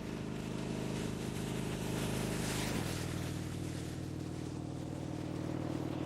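Harley-Davidson Dyna Low Rider's V-twin running under way, with wind noise; about three seconds in the engine note drops to a lower, steady pitch, as on a gear change or easing off the throttle.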